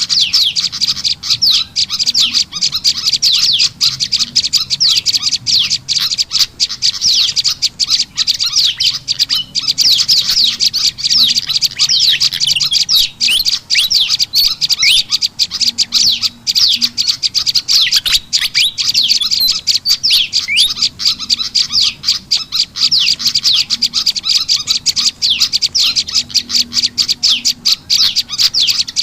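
Bird-lure recording of prenjak lumut calls mixed with kipasan ribut (fantail) calls: a dense, unbroken stream of rapid high chirps and quick down-slurred notes, used to call wild small birds in.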